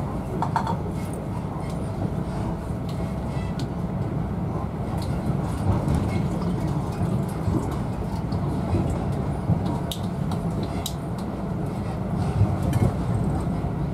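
Inside an InterCity 125 HST passenger coach as the train runs: a steady low rumble of wheels on rails, with occasional light clicks and rattles.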